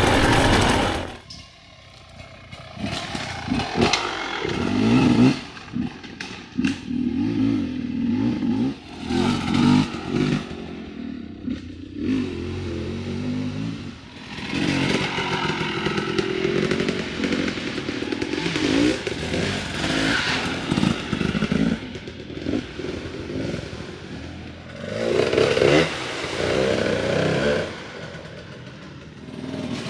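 Dirt bike engine revving up and down again and again as it is ridden hard, with clatter and scrapes. The engine falls off sharply about a second in before picking up again.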